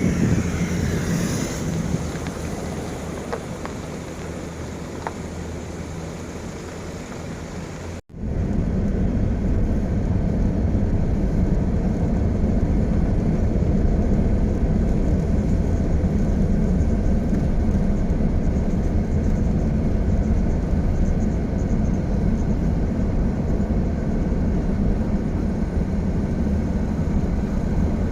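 Steady road-traffic noise, a low rumble mixed with wind. A falling whooshing sweep comes in the first couple of seconds. About eight seconds in the sound cuts out abruptly, then resumes as a louder, steady rumble.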